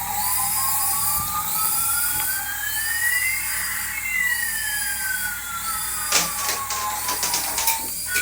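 An electronic siren-like tone gliding slowly up, then slowly back down, over a faint repeating background pattern. A quick flurry of clicks comes near the end.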